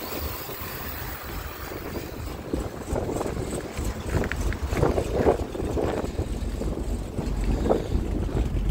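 Supercharged 427 cubic-inch LS V8 in a Cadillac CTS-V idling with a BTR Stage 3 cam, a low rumble with an uneven lope.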